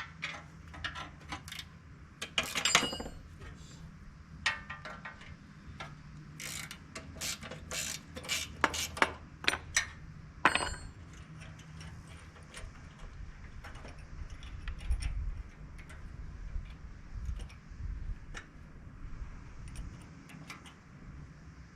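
Hand tools clinking and clicking on metal while a hood lock latch catch is unbolted from a Ford 545A backhoe: irregular sharp clinks, some ringing briefly, thickest in the first half, over a steady low hum.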